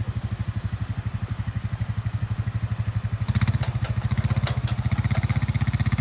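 Four-wheeler (ATV) engine running at low speed while reversing, with an even, steady throb that gets a little louder about three seconds in, plus a few light clatters.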